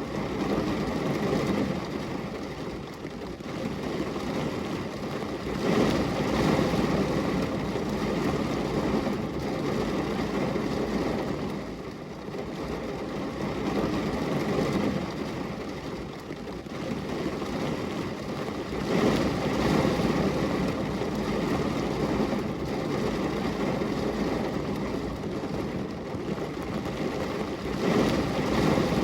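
Steady rain falling on window glass, a continuous wash of noise that swells louder a few times.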